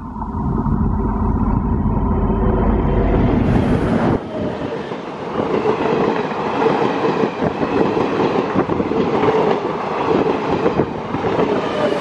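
An Indian Railways DEMU (diesel-electric multiple unit) passing close by at speed. For the first four seconds the leading power car's diesel engine gives a deep rumble. After that the coaches' wheels clatter rapidly over the rail joints.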